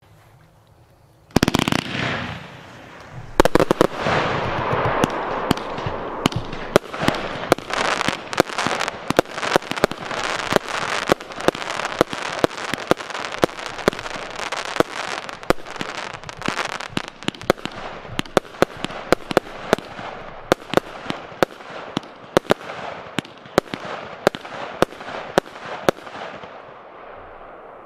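Piromax PXC304 Celebration 7in1 consumer fireworks battery (25/30 mm calibre) firing: after about a second of quiet, a first shot and burst, a brief pause, then a rapid string of sharp shots and aerial bursts, about two to three a second, over a continuous hiss, ending shortly before the end.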